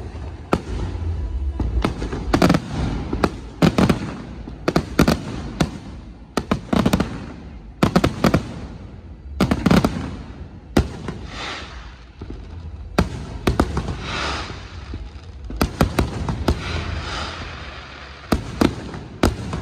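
Aerial fireworks shells bursting overhead in an irregular, rapid string of sharp bangs, some in quick clusters. In the second half, crackling stars fizz between the bangs.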